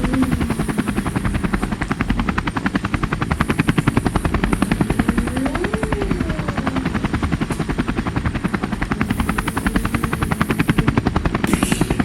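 Helicopter rotor blades chopping in a fast, even beat that holds steady throughout, with a faint tone that rises and falls about halfway through.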